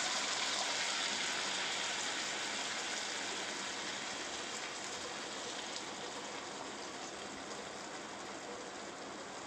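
Ground tomato masala paste sizzling in hot butter and ghee in a kadai, a steady hiss that slowly dies down.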